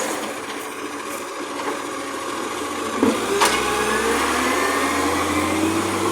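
Garbage truck's engine running, with a sharp clunk about three seconds in; the engine then takes up load with a deeper note and a rising whine, as when the truck's hydraulics are worked.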